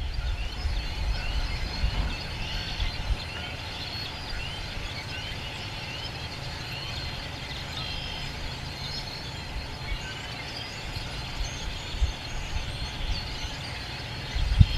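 Chorus of spring peepers: many short, rising high peeps overlapping continuously, over a steady low rumble.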